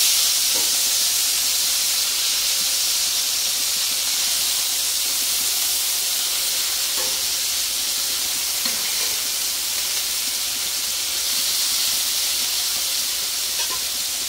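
Hamburger patties sizzling in their own grease on a Blackstone flat-top gas griddle: a steady hiss, with a few faint taps as the spatula pokes the patties.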